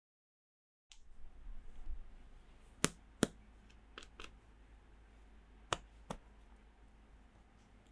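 Small plastic toy pieces and packaging being handled during an unboxing, with sharp clicks and taps: a pair of loud clicks close together, two fainter ones, then another pair.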